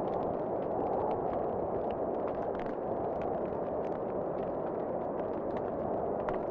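Wood fire in a fireplace crackling: irregular sharp pops and crackles, several a second, over a steady rushing noise.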